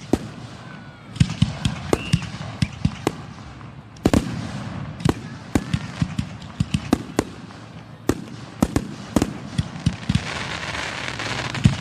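Fireworks display at close range: shells bursting in rapid, irregular succession, dozens of sharp bangs, with a hiss building near the end.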